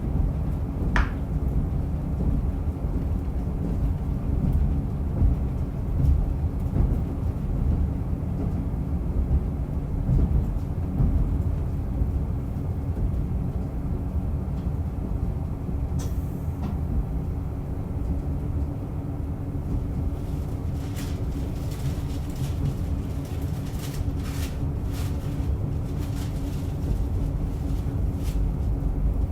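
Diesel railcar running along the line, heard from inside the car: a steady low rumble of engine and wheels on the rails. Scattered clicks and knocks come in over the last third.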